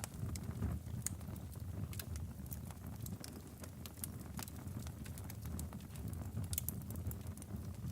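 Log fire burning in a fireplace: a steady low rumble of flame with frequent sharp crackles and pops from the wood, scattered irregularly.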